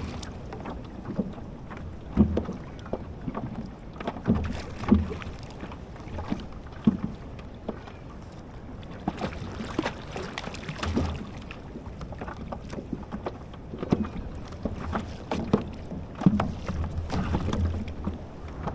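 Knocks and low thumps on a plastic fishing kayak as gear is handled, over water slapping against the hull, with some wind on the microphone.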